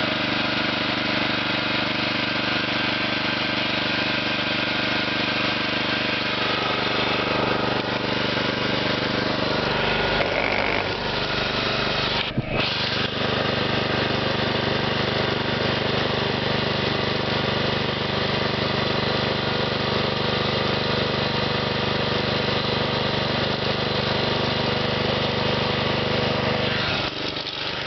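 John Deere riding mower engine running steadily, its note shifting about ten seconds in, with a brief cut-out a couple of seconds later and a drop in level near the end.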